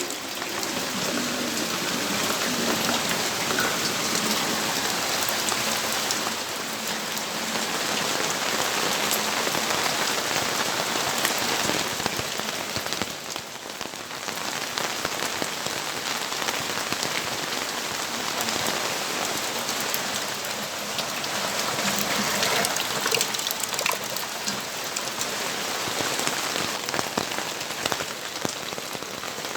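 Rain falling steadily, with many separate drops heard as fine clicks on top of the even hiss, and a brief lull about halfway through.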